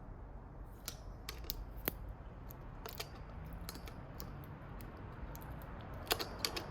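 Scattered light clicks and scrapes of a flathead screwdriver prying at a part held in by plastic clips, with a quick run of sharper clicks near the end.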